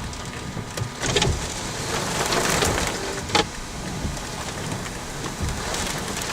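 Heavy rain hitting a car, heard from inside the cabin with the window up, a steady hiss with a couple of sharp knocks.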